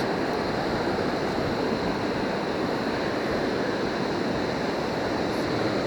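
Surf washing on a beach: a steady, even rush of waves with no breaks.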